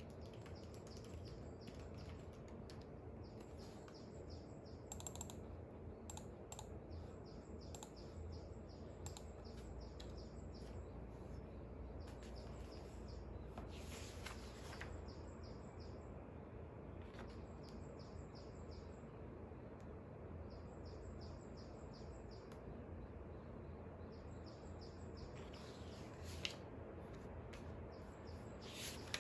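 Birds chirping faintly outside in repeated runs of short, high notes, over a steady low background rumble. A few brief soft clicks or rustles sound now and then, the sharpest about 26 seconds in.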